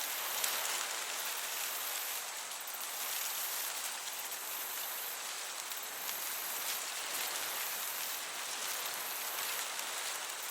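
Meadow crickets chirping in a high, shimmering band that comes and goes in stretches, over the steady hiss of a gentle breeze.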